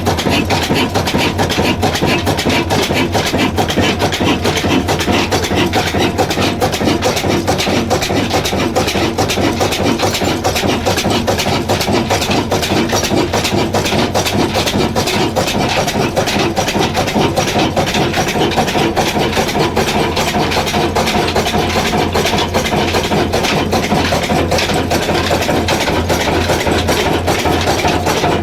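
Old Ruston diesel engine running steadily at an even pace, driving a flour mill.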